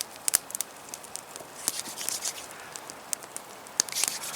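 Campfire crackling: scattered sharp pops and snaps at an irregular pace over a faint hiss.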